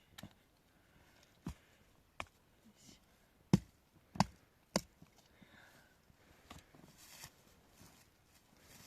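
A series of sharp knocks at irregular spacing, about eight in all, the loudest group a little past the middle.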